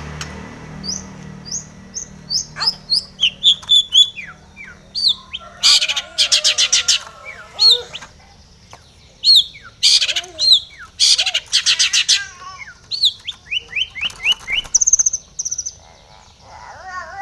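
Long-tailed shrike (cendet) singing in full voice: a fast, varied run of short whistled notes that slide up and down, broken by several loud harsh, rasping chatters.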